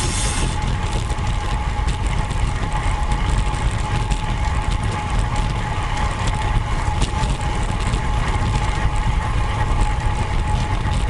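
Steady rumble of wind and road noise on a camera mounted on a road bike while riding, with a thin steady whine held throughout.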